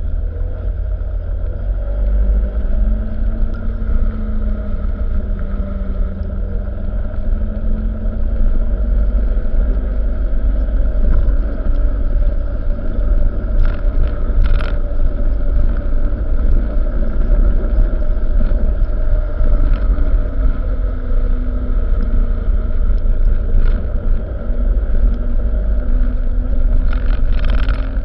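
Truck engine running with a heavy, steady low rumble; its tone drifts slowly up and down as engine speed changes. A few short clicks come about halfway through and again near the end.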